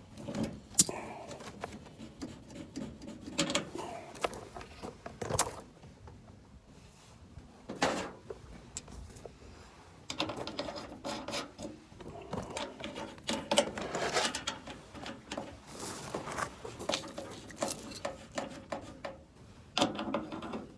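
Handling noises from hands-on work: scattered clicks, knocks and rubbing, busier in the second half, with a faint steady hum in the background for much of that stretch.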